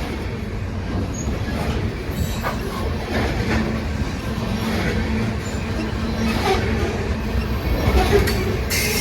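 Coal hopper cars of a CSX freight train rolling past: a steady rumble of steel wheels on rail, with irregular clicks and clanks.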